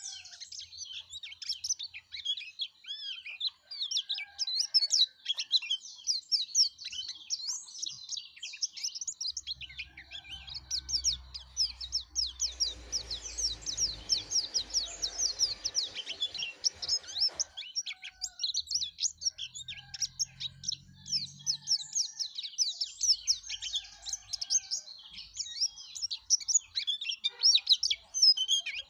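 Yellow-breasted white-eye (pleci dada kuning) singing non-stop, a fast, high twittering stream of chirps and trills with hardly a pause. A soft rushing noise sits under the song for a few seconds around the middle.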